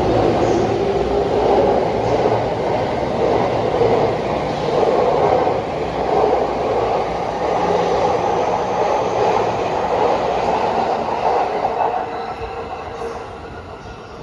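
JR 209 series 1000-subseries electric train running, with steady wheel and running noise and a faint motor whine, fading away over the last couple of seconds.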